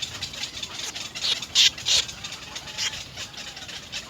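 Nestling birds begging in the nest with fast, harsh, repeated calls. A few louder calls stand out about a second and a half in and again near three seconds.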